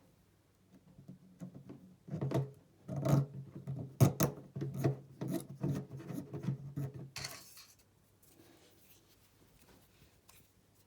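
Hands handling small hard objects: a run of knocks, clicks and rubbing lasting about six seconds, the sharpest click about four seconds in, with a short hiss near the end.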